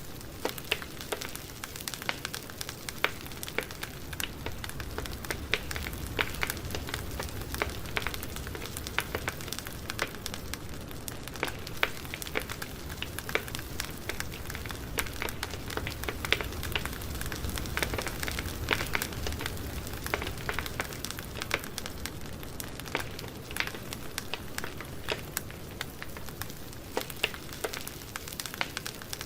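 Wood campfire burning steadily, with a low rumble of flame under frequent sharp crackles and pops from the burning wood.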